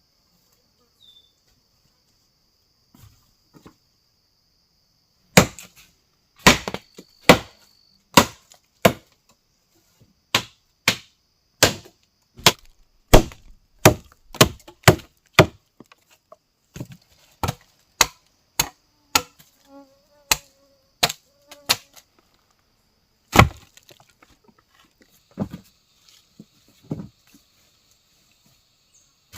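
A blade chopping wood: a long run of sharp strikes, about one or two a second, starting about five seconds in and thinning out near the end. A steady high-pitched insect drone runs underneath.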